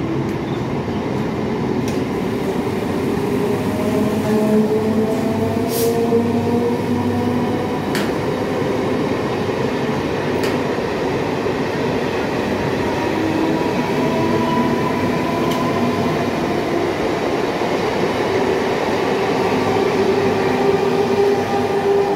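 Suburban electric multiple-unit local train pulling out past the platform: a steady rumble of wheels on rails under a whine that slowly rises in pitch as the train gathers speed, with a few sharp clicks.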